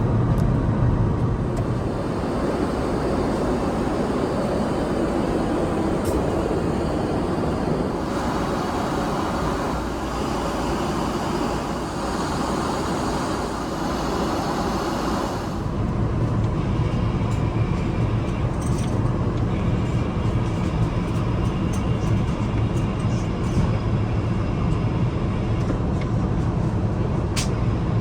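Steady cabin noise of an Airbus A380 airliner: a level rumble and rush of air. About halfway through the sound changes suddenly, with more low rumble, and a few light clicks follow.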